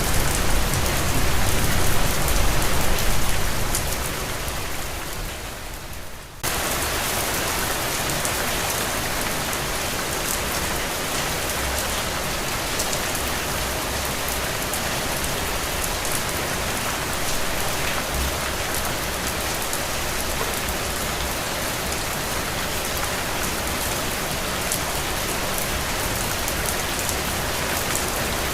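Steady rain falling on a surface, a dense even hiss of drops. A few seconds in, it fades down, then cuts back in suddenly at full level and stays steady.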